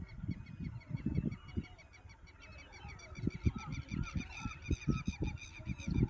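Waterfowl at a pond honking in quick, repeated short calls, getting denser and louder from about three seconds in, over irregular low thumps and rumble.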